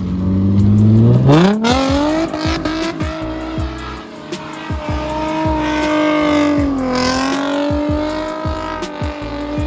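Car engine revving: the pitch climbs steeply about a second in, then holds at high revs with a brief dip near the end, as the car is pushed hard in a drift attempt.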